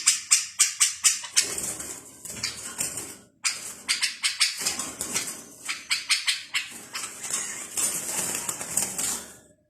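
Small songbirds chirping: a dense run of rapid, short, high-pitched calls that overlap. The calls break off suddenly about a third of the way in and again near the end.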